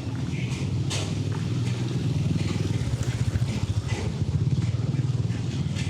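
City road traffic: a steady low engine rumble from vehicles running close by, with short hissy sounds scattered over it.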